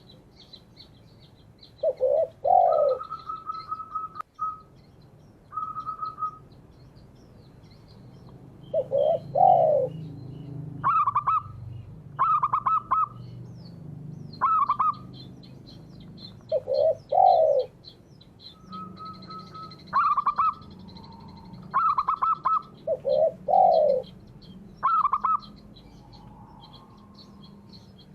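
Spotted dove and zebra dove cooing in turn. Low double coos come about every seven seconds, and between them are higher, rapidly pulsed coo phrases. Faint high chirping of small birds runs underneath.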